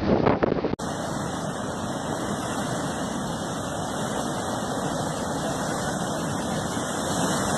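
Gusty wind buffeting the microphone, cut off abruptly just under a second in. It gives way to a steady, even roar of rushing floodwater.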